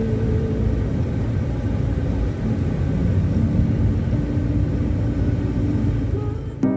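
A steady low rumble with faint held tones over it; electronic music cuts in right at the end.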